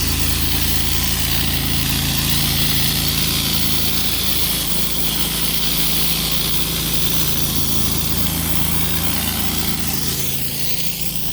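Engine of an 8-gallon-a-minute pressure washer running steadily, with a continuous hiss of high-pressure water spray on concrete.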